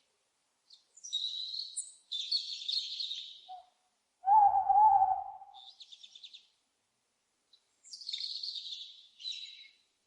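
Owls calling: harsh, raspy high-pitched screeches in two runs, with one louder, lower hoot about four seconds in and a short buzzy call after it.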